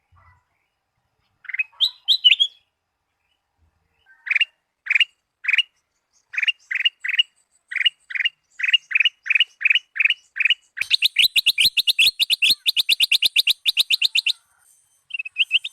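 Kutilang emas bulbul singing: a short phrase, then a run of separate rising whistled notes, about three a second and getting quicker. About two-thirds of the way through this breaks into a fast chattering trill of many quick notes, which stops shortly before a new trill starts at the very end.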